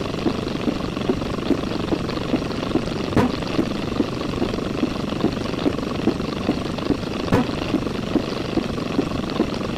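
Steady mechanical noise with a regular thudding beat, about two to three pulses a second, and a few sharp clicks.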